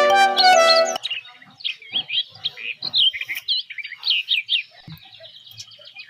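Background music that stops about a second in, followed by a bird twittering: a quick run of short, high chirps that swoop up and down in pitch.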